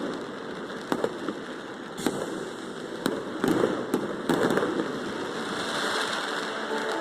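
Fireworks display: a string of sharp bangs from shells bursting, about one a second and closer together in the middle, over a continuous hiss and crackle.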